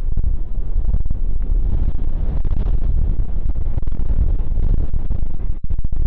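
Strong wind buffeting a phone microphone: a loud, heavily distorted low rumble with a couple of brief dropouts near the end.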